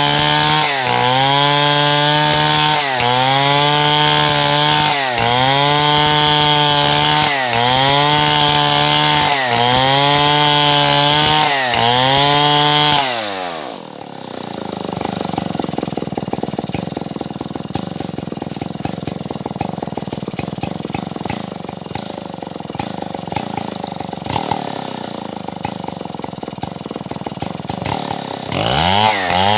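Stihl MS070 two-stroke chainsaw cutting wood at full throttle, its pitch dipping and recovering about every two seconds as the chain bites. About halfway through the throttle is let off and the saw drops to a rough idle for around fifteen seconds, then revs up again near the end.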